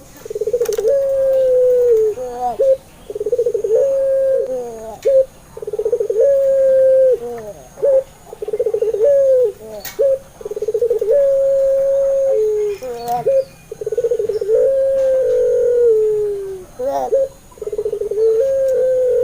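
Puter pelung dove, a Barbary dove variety, cooing over and over: each phrase has a fast rolling, pulsed part followed by a long held note, about eight phrases with short gaps between them. This is a lure call, played to get other pet doves to answer and start cooing.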